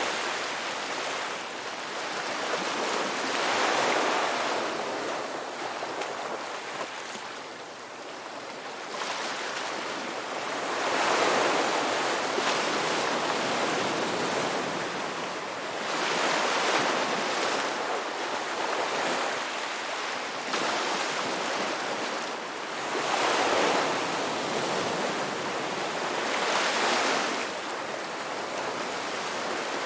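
Ocean waves breaking in a continuous wash of surf, swelling louder every several seconds as each wave comes in.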